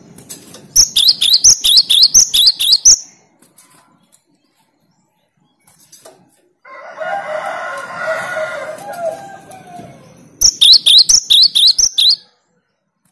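Cinereous tit (gelatik batu) singing: two bursts of rapid, sharp, high repeated notes, about seven a second, each lasting about two seconds. A longer, lower call sounds between the bursts.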